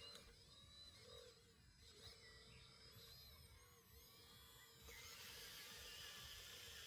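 Faint whine of a scale RC hydraulic excavator's electric pump motor, getting louder about five seconds in, with high chirping glides over it.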